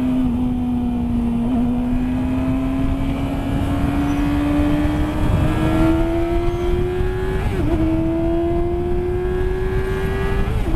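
2019 Yamaha R6's inline-four engine, through a Yoshimura exhaust, running at high revs under hard acceleration. Its pitch climbs slowly with brief dips about three times, over heavy wind rush.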